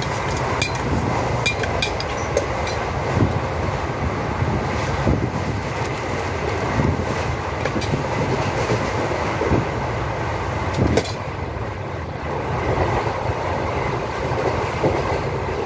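Running noise of the Haldibari–Kolkata Superfast Express, a broad-gauge passenger train under way: a steady rumble with irregular wheel clicks over the rail joints and one sharp knock about eleven seconds in.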